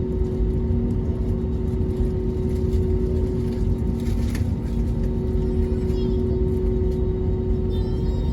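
Steady cabin drone of an Airbus A321neo's Pratt & Whitney PW1100G geared turbofans running at low power before takeoff: a deep rumble with two steady hums.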